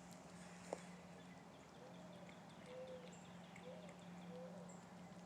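Faint early-morning birdsong: a mourning dove cooing a series of soft low notes, with a fast high trill from a songbird and a few short high whistles, over a steady low hum. A single sharp click about a second in.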